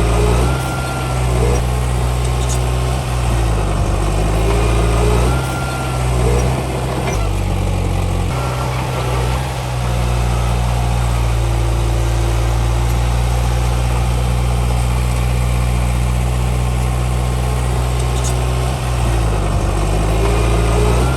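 Heavy diesel engine of earthmoving machinery running under varying load. Its pitch dips and recovers several times in the first few seconds and again near the end, and holds steady in between.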